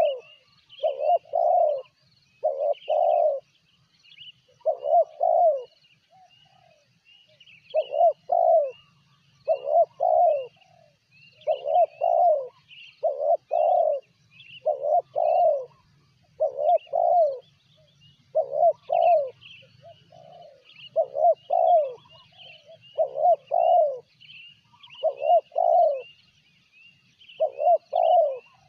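Spotted dove cooing again and again, in phrases of two or three short falling coos about every one to two seconds. Faint chirping of small birds runs alongside.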